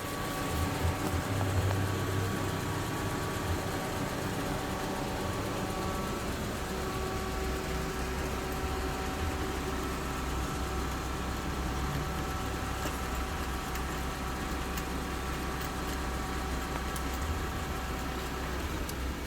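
Suzuki two-cylinder motorcycle engine idling steadily with a misfire, which the mechanic puts down to a spark plug not firing.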